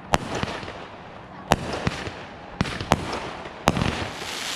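Backyard consumer fireworks going off: about five sharp bangs at uneven spacing of roughly a second, with smaller pops between them over a continuous crackle.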